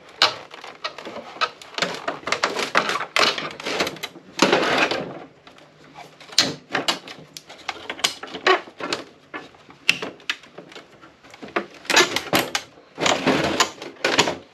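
Rapid clicks, knocks and rattles with a couple of longer scrapes: plastic casing and metal parts of an APC battery backup unit being pried, wiggled and handled while a stuck part is worked loose.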